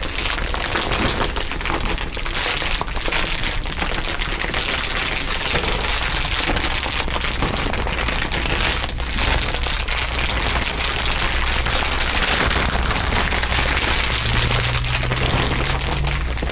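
Dense layered crinkling, a continuous crackle of many small overlapping clicks, over a steady low drone, with low steady tones coming in near the end.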